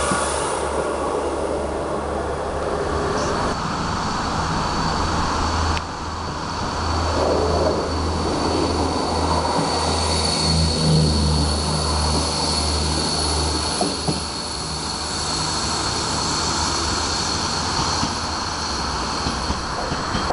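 Steady low rumble of trains running on the station tracks, swelling and easing, with a thin high whine joining a few seconds in.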